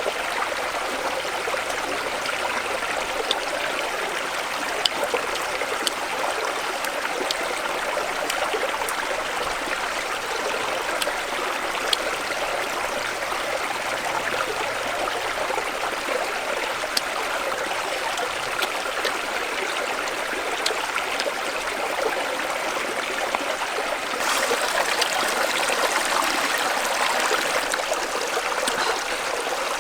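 Steady rush of running water, like a flowing stream, with scattered small clicks. It grows a little louder and brighter for a few seconds near the end.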